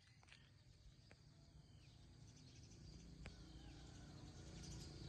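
Faint outdoor ambience: a bird repeating a short, high call every couple of seconds over a steady insect drone and a low rumble, slowly growing louder.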